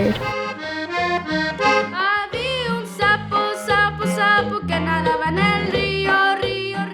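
Accordion playing a quick melody of changing notes over shifting bass notes, in the style of Mexican norteño music.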